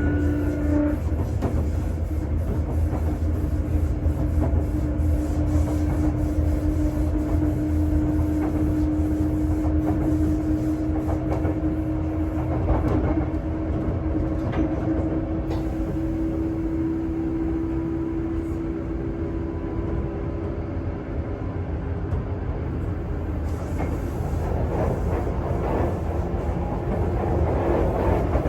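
Running noise heard inside a motor car of a Sotetsu 8000 series train with renewed traction equipment, cruising between stations: a steady low rumble with wheels clicking over rail joints. A thin motor whine slowly rises in pitch and fades out about twenty seconds in.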